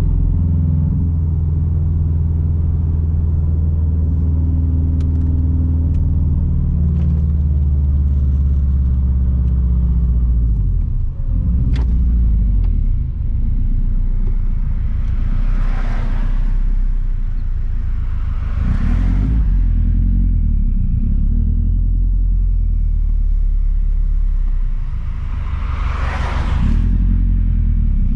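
Straight-piped exhaust of a 2006 Subaru WRX STI's turbocharged flat-four engine rumbling steadily while driving, with a short dip in the drone about 11 seconds in and three brief rushing swells of noise in the second half.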